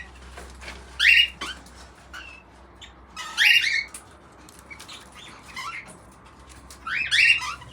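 Baby cockatiel giving three loud, harsh squawking calls about two to three seconds apart, with a fainter call between the last two.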